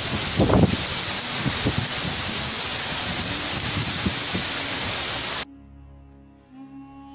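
Torrential rain and wind making a loud, dense hiss, with a few short low gusty rumbles. It cuts off suddenly about five seconds in, and soft string music takes over.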